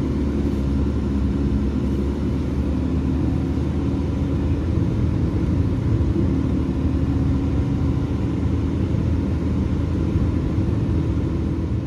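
BMW E36 being driven: a steady low engine and road drone whose engine tones shift a little in pitch.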